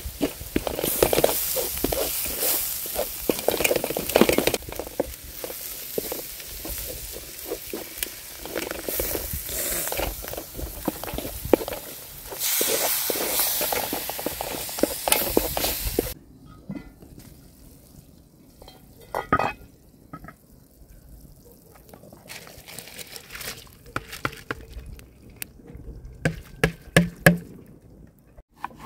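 Chopped green herb filling sizzling in a wide metal pan over a wood fire, with a wooden spoon scraping and stirring through it. About sixteen seconds in the sizzling cuts off suddenly, leaving a quieter stretch of scattered clicks and knocks.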